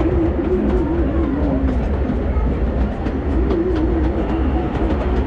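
Redwood Valley Railway miniature steam train running along the track: a steady low rumble with faint clicking of wheels over rail joints. A wavering tone comes and goes twice.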